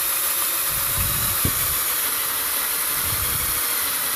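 Electric drill running slowly with its bit cutting into a broken steel exhaust manifold bolt: a steady hiss with a faint motor tone underneath, and a single click about a second and a half in.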